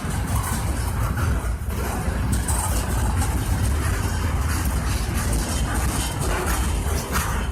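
Norfolk Southern freight train rolling past: a steady low rumble with irregular clicks and clanks from the wheels on the rails.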